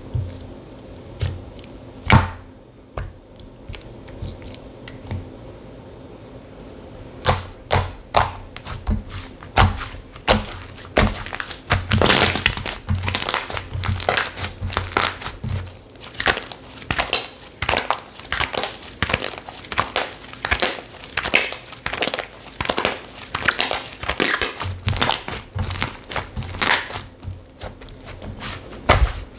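Slime being squeezed and poked by hand, giving sharp clicking and popping sounds: only a few at first, then a dense, irregular run of several a second from about seven seconds in.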